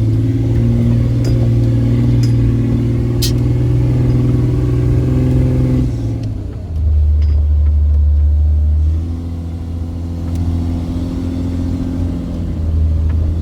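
Off-road 4x4 vehicle engine running steadily under load, its note shifting lower about six seconds in. A few sharp knocks sound in the first few seconds.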